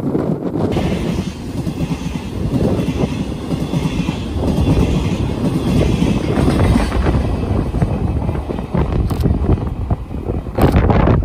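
Train of empty Chiki 5500 rail-carrying flatcars running past close by, a steady low rumble of wheels on track with clattering knocks as the wheels cross the rail joints.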